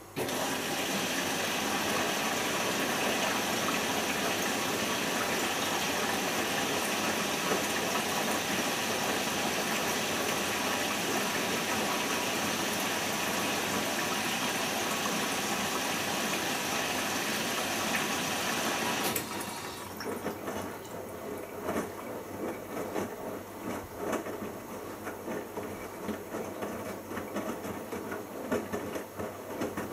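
Bosch Logixx washing machine's water inlet valve open, with a steady rush of water filling the machine once the load has been sensed. The rush cuts off suddenly about two-thirds of the way in, leaving a quieter, uneven sound with small knocks.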